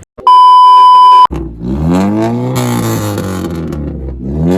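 A loud, steady electronic beep lasting about a second, then a car engine revving: its pitch climbs, holds, eases back down and starts to climb again near the end.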